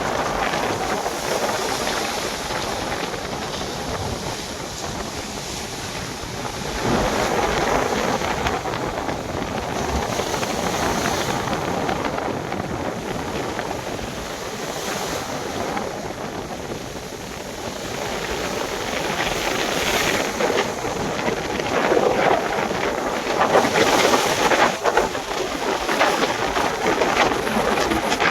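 Sea waves and wind rushing over the microphone, a steady noise that swells louder several times.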